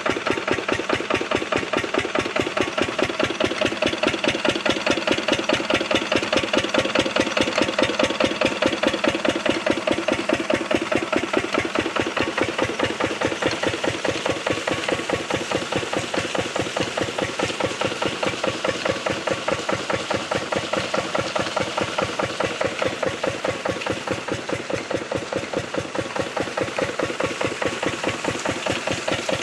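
Diesel engine running a water pump for field irrigation, holding a steady speed with an even, rapid firing beat throughout.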